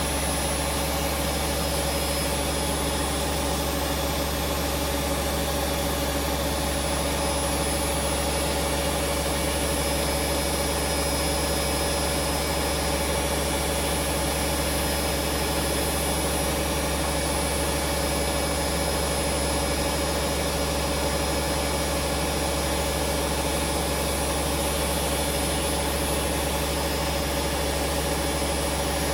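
Hoover Vision Dynamic washing machine spinning at a constant high drum speed: a steady hum with a fixed whine that does not change.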